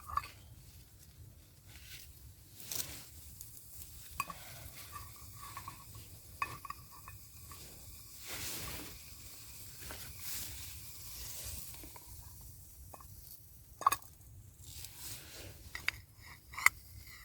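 Camp cooking in a small metal pan: a utensil stirring and scraping, with faint sizzling and several sharp metal clinks.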